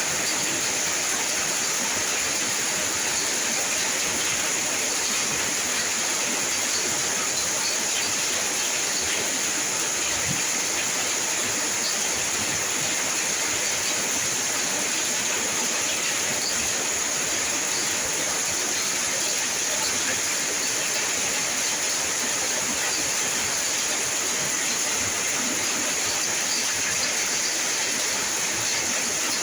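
Steady rain falling, an even hiss that keeps up without change.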